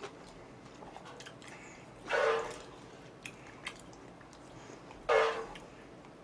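Close-miked eating sounds: soft mouth clicks of chewing, with two short, louder noisy sounds about two and five seconds in.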